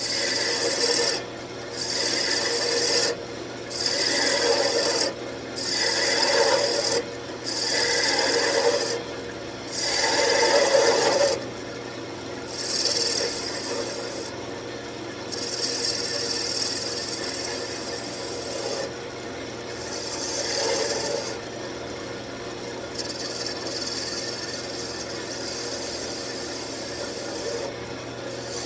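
Wood lathe running with a heavy roughing gouge cutting the spinning wood, made in about six separate passes of a second or so each, then lighter, steadier cutting from about twelve seconds in. A steady low hum from the lathe runs underneath.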